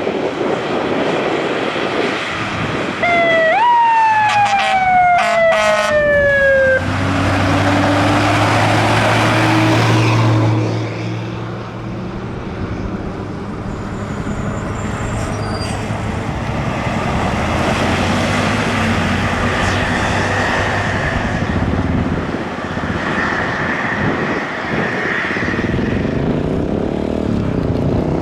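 Fire trucks driving past with sirens: a siren sweeps down in pitch a few seconds in, then truck engines and road noise carry on steadily.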